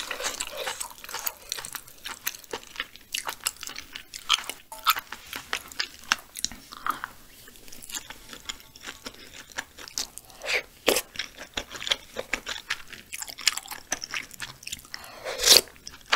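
Close-miked eating sounds of a person chewing mouthfuls of spicy braised chicken stew with intestines: wet chewing and many short mouth clicks, with a few louder clicks around the middle and near the end.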